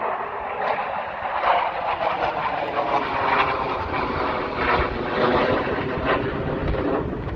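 Jet engine noise from a U.S. Air Force Thunderbirds F-16 Fighting Falcon flying by: a loud, steady rush of noise that holds up throughout.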